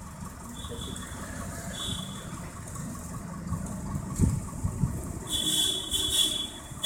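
A motor vehicle running with a steady low rumble. Short high-pitched tones sound twice early on, then longer and louder ones near the end. There is a dull thump about four seconds in.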